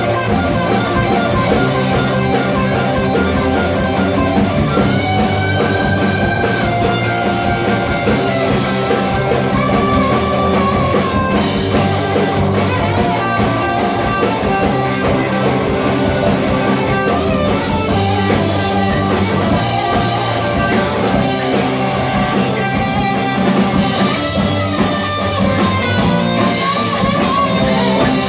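Rock band playing: an electric guitar lead with sustained, bent notes over drum kit and bass.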